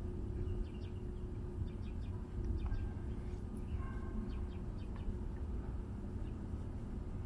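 Faint, short bird chirps and calls, scattered a few seconds apart, over a steady low rumble.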